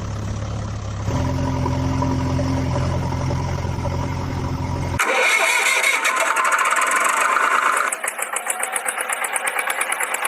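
Vehicle engine running with a steady low hum, which changes abruptly about halfway through to a higher, rattling mechanical sound that pulses rapidly near the end.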